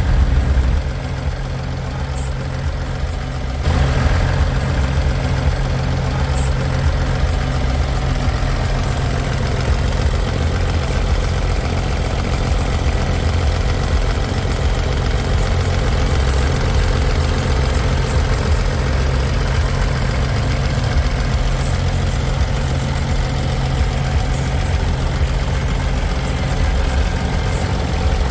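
Diesel engine of a semi truck idling steadily, a low rumble; it drops back about a second in and grows louder again at about four seconds.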